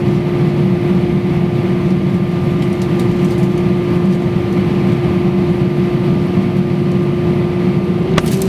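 Steady jet engine roar of an Airbus A320-232 with IAE V2500 engines, heard inside the passenger cabin, with a constant hum tone running through it. A single sharp click comes near the end.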